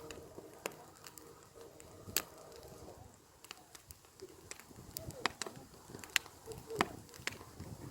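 Campfire burning, the wood crackling with irregular sharp pops and snaps, a few of them louder, about two seconds in and in the second half.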